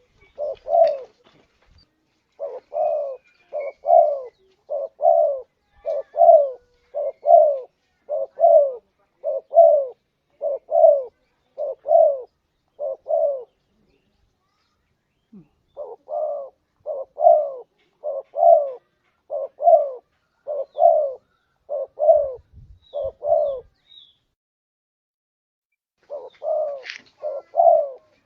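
Spotted dove cooing: a long run of short, low coo notes repeated steadily, breaking off briefly about halfway through and again near the end before starting up again.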